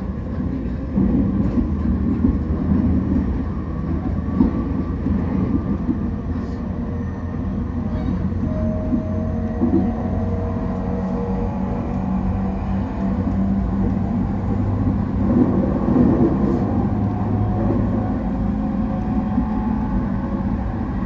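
Running noise inside a JR East Shonan-Shinjuku Line electric commuter train travelling at speed: a steady rumble of wheels on rail with a low motor hum. A higher whine rises out of it for a few seconds about a third of the way through.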